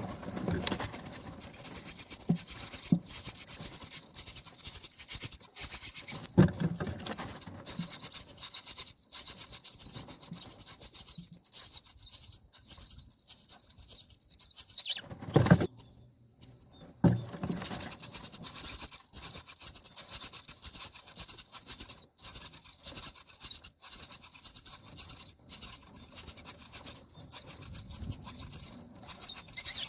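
Common myna nestlings giving harsh, high-pitched begging calls in a rapid, almost unbroken run. The calls stop for about two seconds around the middle, just after a low thump, then resume.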